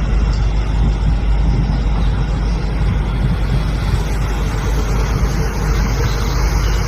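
Loud, steady rumbling noise of jet aircraft engines, with no distinct strokes or changes in pitch.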